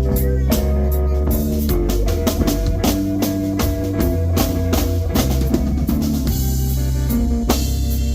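Live band playing an instrumental passage: electric guitar over bass and a drum kit keeping a steady beat.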